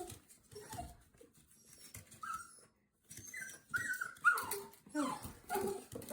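A pet animal crying: a string of short, high-pitched whining calls, several sliding down in pitch and coming closer together in the second half.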